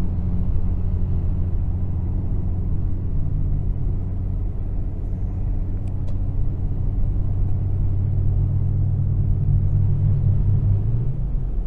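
Car engine running at low revs: a steady deep drone whose pitch rises slightly about nine seconds in.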